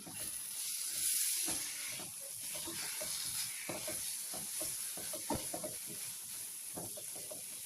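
Chicken pasanday sizzling in oil in a pan while a spoon stirs it, with frequent short scrapes and clicks of the spoon against the pan over a steady high frying hiss. This is the dish being mixed after garam masala goes in, late in the frying stage when the oil has separated.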